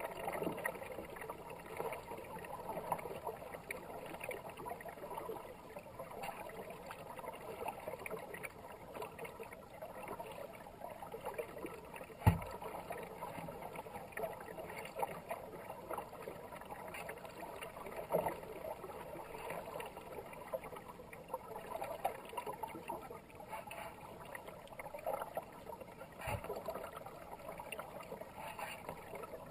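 Kayak paddling on a fast-running river: irregular paddle splashes and water gurgling past the hull, with two dull knocks, about 12 and 26 seconds in.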